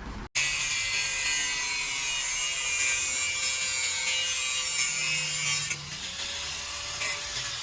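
Harsh, hissing scrape of a tool working on metal, starting abruptly and dropping to a quieter level about two-thirds of the way through.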